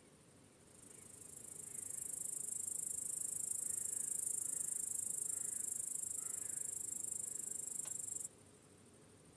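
Crickets chirping: a high-pitched insect trill swells up over the first couple of seconds, holds steady, then stops abruptly about eight seconds in.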